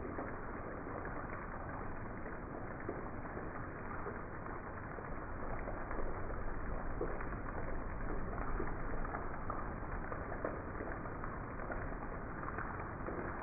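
Heavy rain falling steadily on grass and pavement, a dense even hiss of drops, a little louder from about six seconds in.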